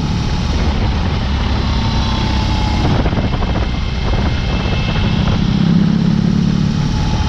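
BMW R18's 1802 cc boxer twin running through an open Dr. Jekill & Mr. Hyde exhaust while the motorcycle is ridden. The exhaust note is strongest at the start and again about two-thirds of the way in, and eases in between.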